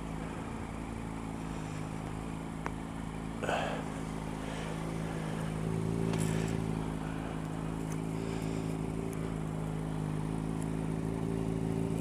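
Motorcycle engine idling steadily, with a single click about three seconds in and a few short bursts of noise over it.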